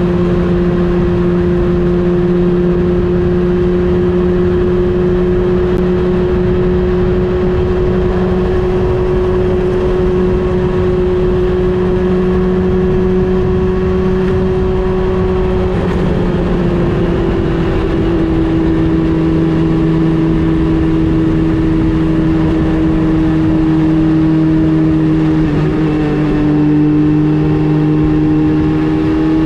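Honda CB400 Super Four Revo's inline-four engine running at a steady cruise while riding, with a constant rush of noise underneath. Its pitch drops a little about halfway through and dips again near the end as the revs ease.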